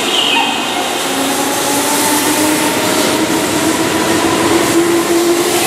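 Keihan Electric Railway commuter train (set 2631) pulling along the platform and gathering speed, its traction motors whining and slowly rising in pitch over steady wheel and rail noise.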